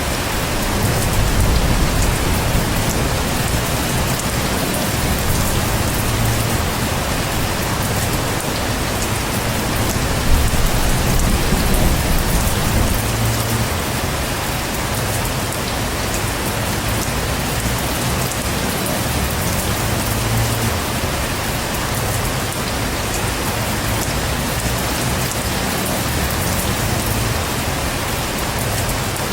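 Heavy rain pouring steadily, with low thunder rumbling and swelling up a few times, most strongly near the start and about ten seconds in.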